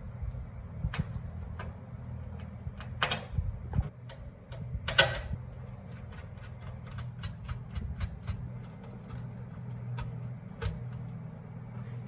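Scattered sharp clicks and knocks of small hard objects being handled, with a quick run of ticks in the middle, over a steady low hum.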